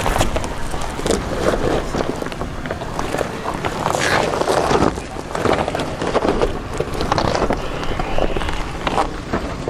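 Wind gusting and crackling on the microphone, over the low rumble of a 4x4 crawling over rocks on a steep trail.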